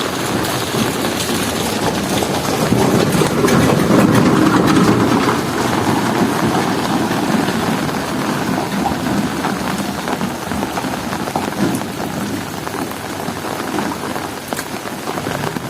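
Heavy rain falling and pattering on surfaces, with scattered drips. A low rumble swells up about three seconds in and fades over the next few seconds.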